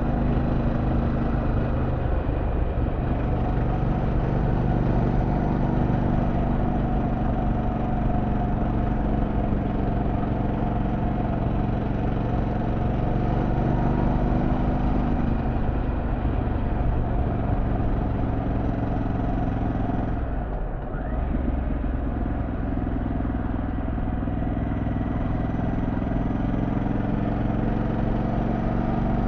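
2024 Harley-Davidson Pan America Special's Revolution Max 1250 V-twin running steadily under way, with road and wind noise. The engine note dips briefly about twenty seconds in.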